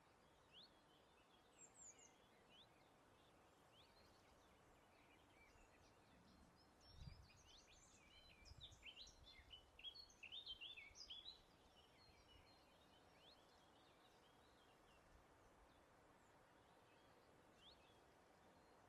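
Faint birdsong: small birds giving short, quick chirps, scattered at first, then a busier flurry of calls in the middle, over a faint steady background hiss. A brief low rumble about seven seconds in.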